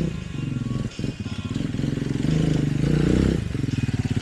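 Dirt bike engine running, dipping briefly about a second in and then pulling harder again.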